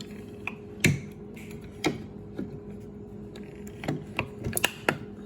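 A series of short, sharp plastic clicks and knocks at irregular intervals from parts of the refrigerator being handled, over a steady low hum.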